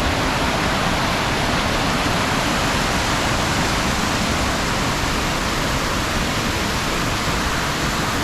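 Rushing water of the Düden stream below the waterfall: a loud, steady, unbroken rush.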